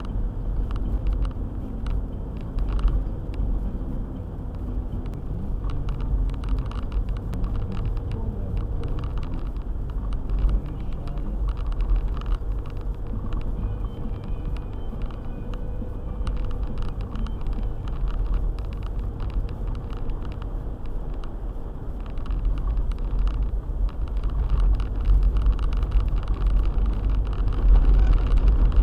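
Four-wheel-drive car driving: a steady low engine and road rumble with scattered small knocks and rattles, getting louder about two-thirds of the way through.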